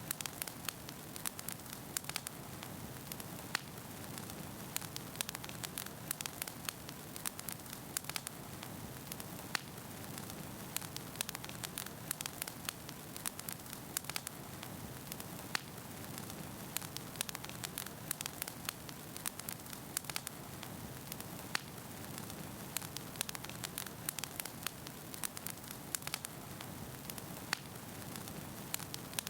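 Wood fire burning steadily in a fireplace, its logs crackling and popping with many small irregular snaps over a soft steady rush.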